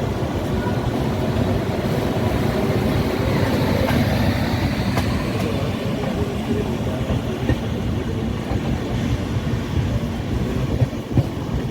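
A passing train's steady low rumble, swelling a little about four seconds in, with a few faint clicks.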